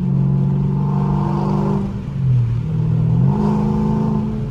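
Straight-piped 6.4-litre HEMI V8 exhaust of a Dodge Charger Scat Pack 392 under way. The engine note holds steady, drops in pitch about two seconds in, then climbs back up a second later.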